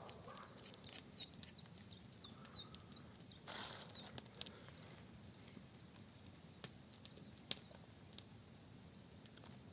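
A small bird chirping a quick run of short high notes for a couple of seconds, then a brief rustle and scattered faint clicks over a quiet background.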